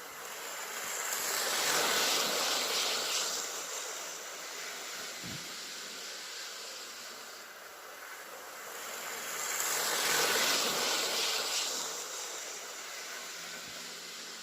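Hornby OO-gauge Class 47 model diesel locomotive and Pullman coaches running on the track, a rushing whir of the motor and the wheels on the rails. It swells up and fades away twice, about eight seconds apart, as the train passes close by on each lap.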